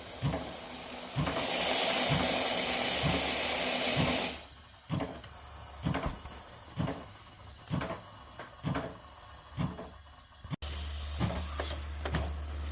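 Live steam hissing out of the fittings around the steam pump of a gauge G live-steam Shay locomotive as the cold system is charged with steam from a steam generator. The hiss is loud for about three seconds, then gives way to irregular short spits and pops. Near the end a steady low hum comes in.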